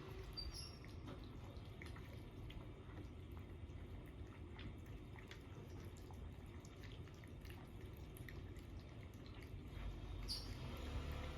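Cats eating from their bowls: faint, irregular small clicks and wet smacking of chewing and lapping, over a low steady room hum.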